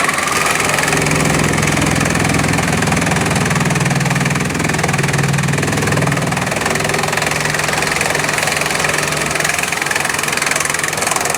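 Bamboo-crushing machinery running steadily: a continuous low mechanical hum under a broad grinding hiss.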